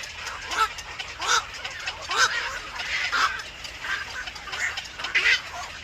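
Bird calling over and over in short, rising calls, about one or two a second.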